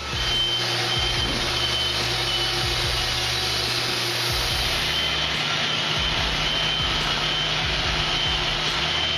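Wood-Mizer LT50 portable band sawmill running steadily, its engine and band blade working together, with a thin high whine that comes and goes.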